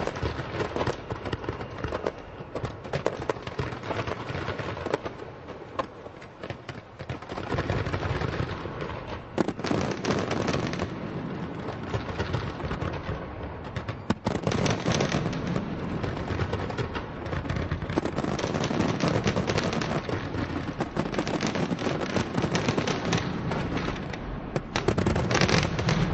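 Large professional fireworks display: a continuous barrage of shell bursts and crackling, with heavier surges about a third of the way in, around halfway and near the end.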